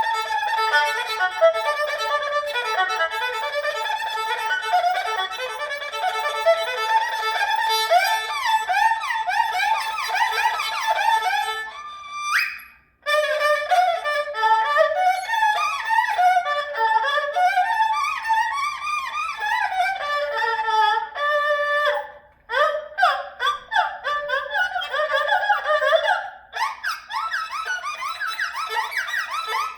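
Solo erhu playing fast, ornamented passages of quick trills, grace notes and slides that imitate birdsong. About twelve seconds in, a note slides upward and the playing stops for a moment, then resumes. It breaks off briefly again near the 22-second mark.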